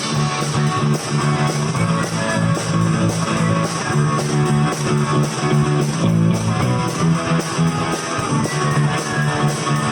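A live rock band plays an instrumental passage without vocals: strummed guitars over bass guitar, with a steady beat.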